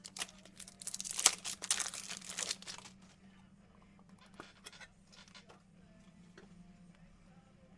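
Crinkly plastic card wrapping being torn and crumpled for about three seconds, followed by a few light clicks of cards and packaging being handled.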